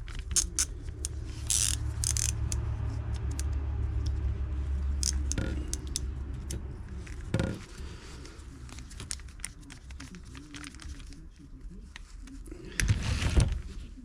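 Small metal carburetor parts and a spring being handled and fitted: scattered clicks, light metallic rattles and scrapes, with a low steady hum through the first few seconds and a louder scrape near the end.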